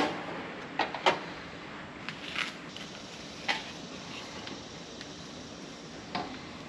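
Handling noise from garage work: a few sharp knocks and clicks of parts being moved and set down. The loudest comes at the start, a pair follows about a second in, and softer ones are scattered through the rest, over a quiet background hiss.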